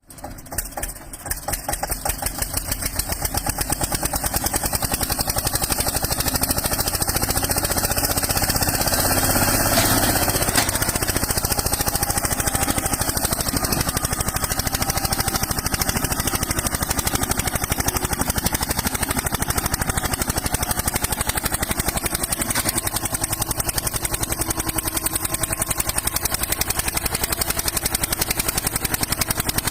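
Eicher tractor's diesel engine running with a rapid, even beat of firing pulses, growing louder over the first few seconds and then holding steady.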